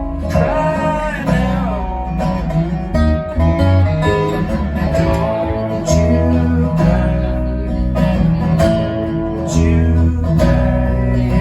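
A live band playing a song, led by guitars over a full low end and steady beats.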